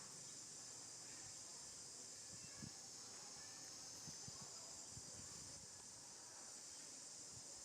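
Faint, steady, high-pitched insect chorus, with a few soft low knocks.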